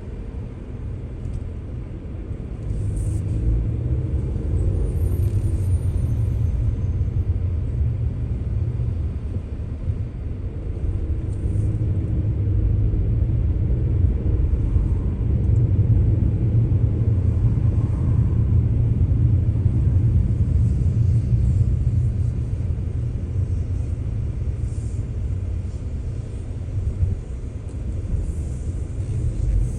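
Low, steady rumble of a car on the move: road and engine noise, growing louder a few seconds in and holding.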